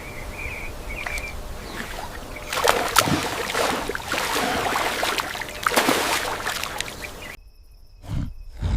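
Outdoor natural ambience: a rough noise that swells twice, about three and six seconds in, with a few faint high chirps near the start.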